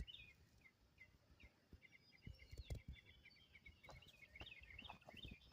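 Faint, repeated short chirps of a small bird calling several times a second, over low rumble and a few soft thumps of wind or handling noise on the microphone.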